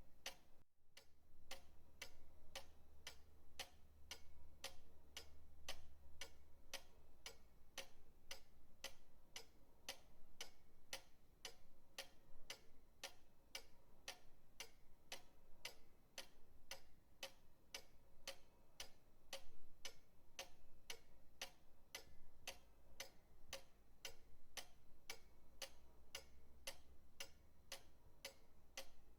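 Pendulum clock ticking steadily, about two ticks a second, over a faint low hum.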